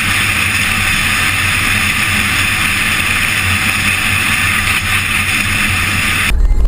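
Moving car: steady road and engine noise, an even hiss with a low hum beneath, unchanged until it cuts off abruptly near the end.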